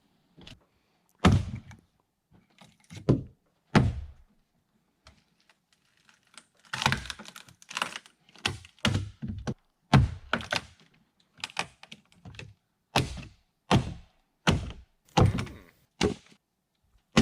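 Heavy hand-tool blows on wood, each a sharp thunk: a few spaced strikes, then a steady run of about a dozen blows at roughly one a second.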